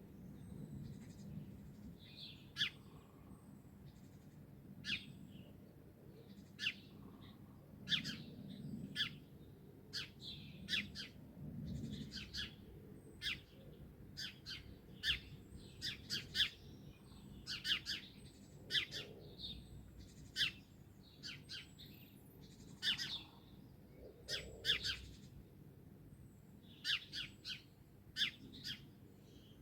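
Several songbirds chirping: many short, sharp, high chirps coming irregularly and sometimes overlapping, over a faint low background hum.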